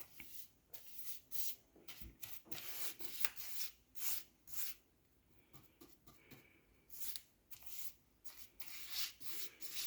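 Paintbrush bristles stroking wet acrylic paint across a door frame, a series of short, irregular brushing swishes as the paint is spread and feathered off.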